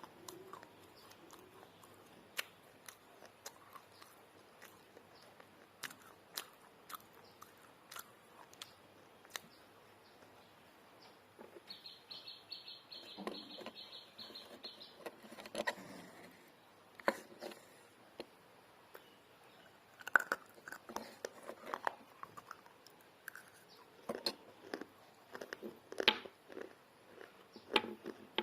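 Close-miked biting and chewing of baked clay pot pieces, dry and crunchy. The crackles are sparse at first, then come as dense bites and crunches from about halfway on.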